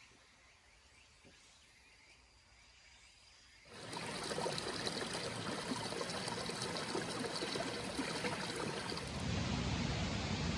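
Faint outdoor ambience, then about four seconds in the rushing of a clear mountain stream cuts in suddenly and runs steadily, turning deeper near the end.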